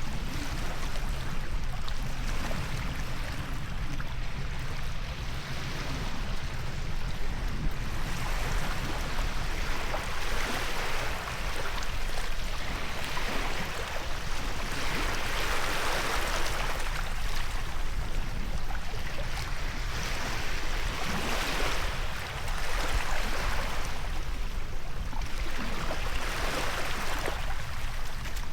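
Ocean waves washing onto a beach, a steady hiss of surf that surges and ebbs every few seconds over a low rumble.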